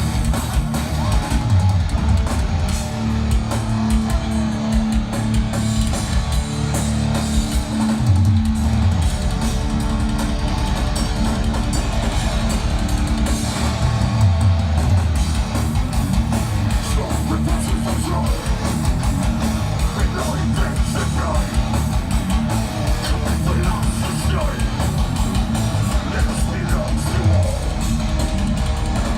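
Live rock band playing loud amplified music: electric guitars over bass and drum kit.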